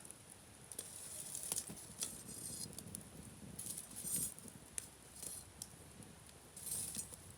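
Wood campfire crackling, with scattered sharp pops and snaps over patches of high hissing.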